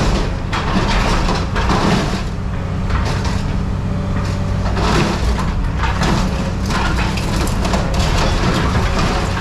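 Scrap metal being crushed in a heavy machine: irregular crunching and cracking over a steady low engine hum.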